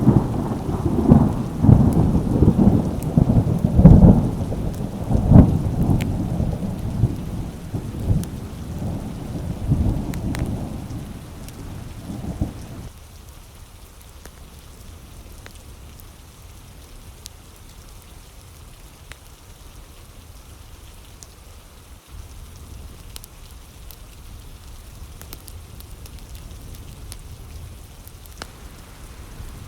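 Thunder rumbling in rolling peals over steady rain. About thirteen seconds in, the thunder cuts off abruptly, leaving only the steady patter of rain.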